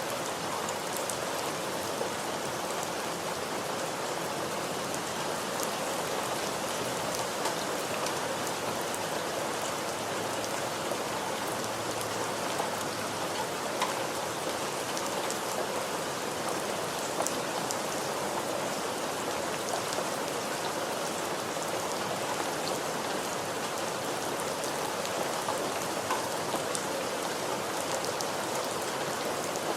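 Steady rain falling on a surface, an even hiss with many small drop impacts scattered through it.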